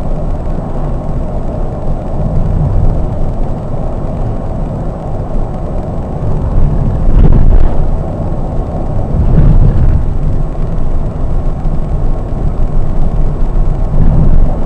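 A Scania K420 coach's engine and road noise while driving: a steady low rumble, with two brief louder swells about seven and nine and a half seconds in.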